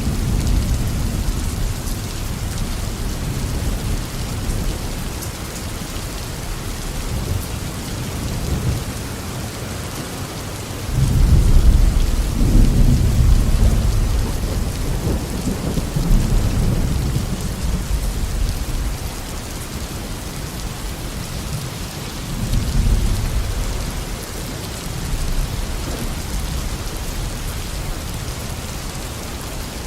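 Steady heavy tropical rain falling on a garden, with rolling thunder: a loud deep rumble builds suddenly about a third of the way in and rolls on for several seconds, followed by weaker rumbles later.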